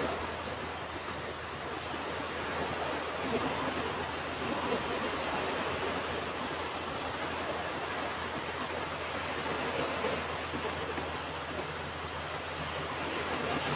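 Ocean surf washing onto a beach: a continuous rushing wash that swells and eases a little every few seconds, with no single sharp crash.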